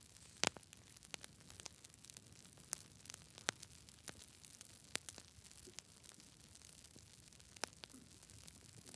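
Campfire crackling: irregular sharp pops and snaps over a soft steady hiss, the loudest pop about half a second in.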